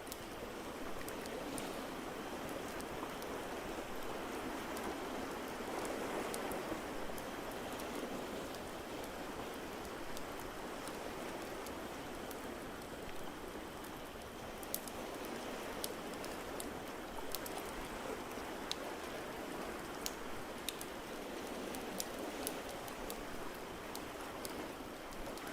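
Steady, gently swelling wash of ocean waves, with the sharp pops and crackles of a wood fire scattered over it, the pops more frequent in the second half.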